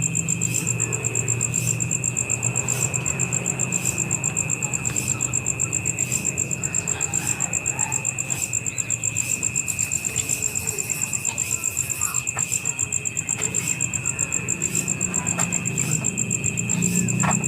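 Crickets chirping in a steady chorus: a high, fast, evenly pulsing trill that runs unbroken.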